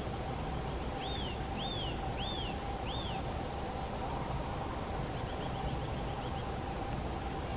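Birds calling: four arched high notes about half a second apart, then a quick run of short high notes about five seconds in. A steady hum and low rumble run underneath.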